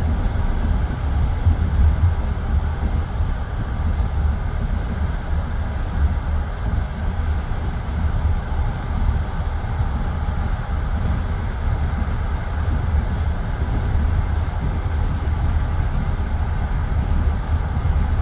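A passenger train's wheels and running gear rolling along the track, heard from inside the carriage as a steady, heavy low rumble.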